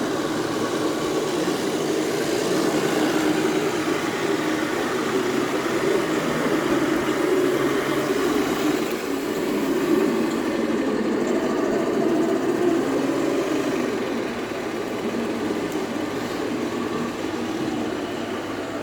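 A vehicle engine runs steadily, with no clear revving or sudden sounds.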